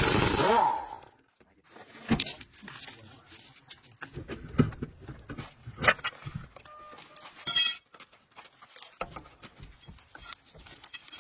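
Loud rushing noise that cuts off about a second in, then scattered metallic clinks and knocks of tools and parts being handled, with a brief ringing tone about seven and a half seconds in.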